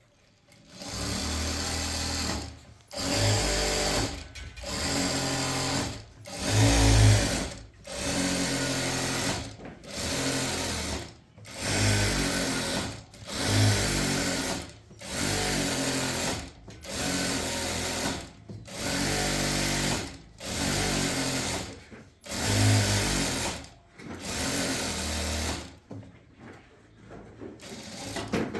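Electric sewing machine stitching in short runs, starting and stopping about every second and a half, with its motor hum rising and falling each time; the runs turn shorter and weaker near the end.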